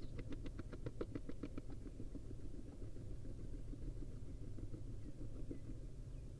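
Barn owl preening and shifting about in the nest box: a quick run of light scratching clicks in the first couple of seconds, then a few faint ticks, over a steady low hum.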